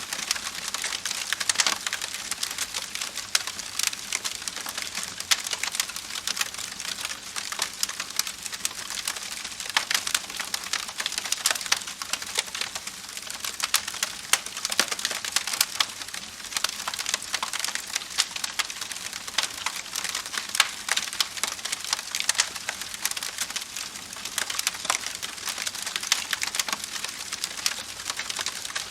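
Wood fire crackling steadily, with a dense run of sharp pops and snaps over a soft hiss.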